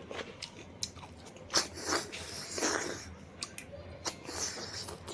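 A person chewing and biting food close to the microphone: wet smacks and sharp clicks at irregular intervals, the sharpest about a second and a half in.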